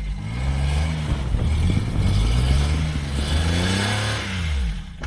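Daihatsu Hijet kei van's engine running under way, its pitch rising and falling twice as it revs, then dropping away and stopping about a second before the end.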